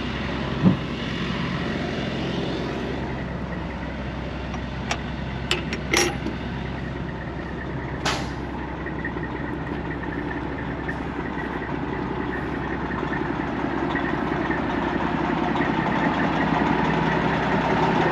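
Semi-truck engine idling steadily, with a few short clicks and knocks in the first half; the idle gets a little louder in the last few seconds.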